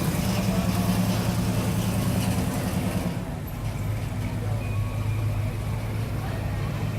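Classic car engine running slowly with a steady low hum, the higher noise easing a little about three seconds in.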